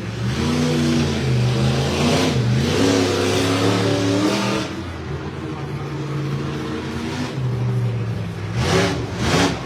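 Monster truck engine revving up and down repeatedly, its pitch climbing and dropping, with a few quick sharp revs near the end.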